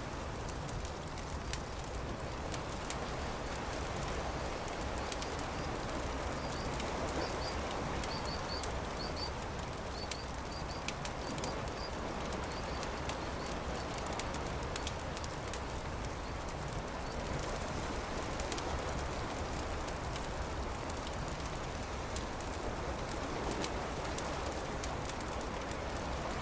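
Campfire crackling with scattered sharp pops over a steady rush of surf that slowly swells and eases. A small bird chirps several times between about six and twelve seconds in.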